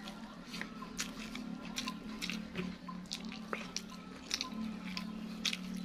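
Close-up wet chewing and lip-smacking of a person eating rice and saucy chicken by hand, with many short sharp mouth clicks at an uneven pace.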